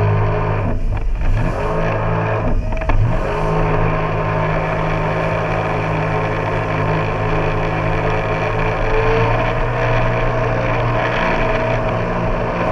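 An engine revving up twice in the first few seconds, then running steadily at one pitch until near the end.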